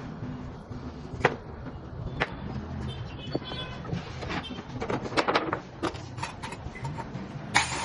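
Scattered knocks and clicks, like handling and tapping on wood and metal, over a low background rumble; a loud steady hissing noise starts just before the end.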